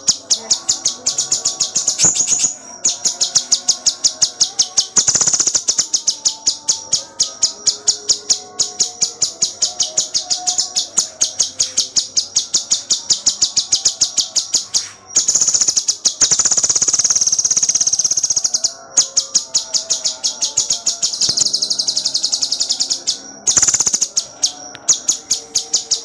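Cucak cungkok singing in rapid, tight volleys: a fast, even string of sharp high chirps, several a second, broken three or four times by a short continuous high trill.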